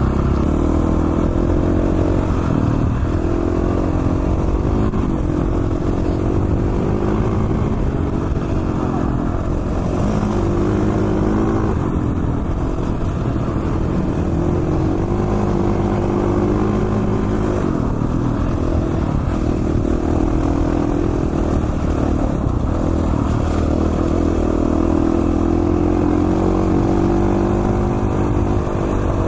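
2017 KTM 450 XC-F dirt bike's single-cylinder four-stroke engine running under changing throttle while being ridden, its pitch rising and falling repeatedly.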